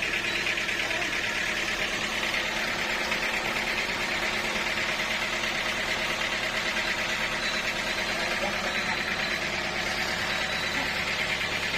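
Sawmill machinery running steadily: an even engine-like hum under a constant hiss, with no sudden changes.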